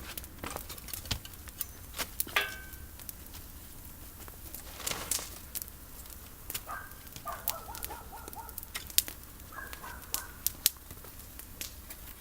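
Campfire of olive prunings crackling, with irregular sharp pops. A bird calls a few times in short bursts of notes.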